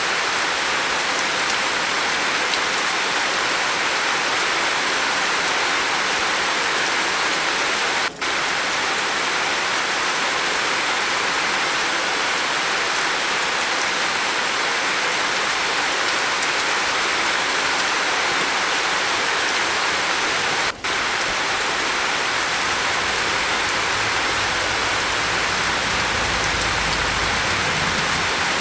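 Steady rain falling on a roof, an even hiss, broken twice by a split-second dip in level. A faint low rumble comes in near the end.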